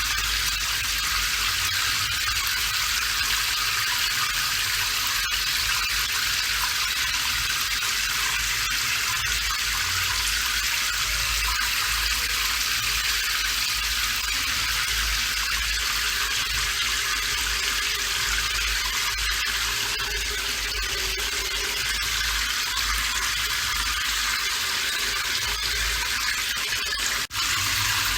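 Steady rain, a dense even hiss with a low rumble beneath it; it drops out for a split second near the end.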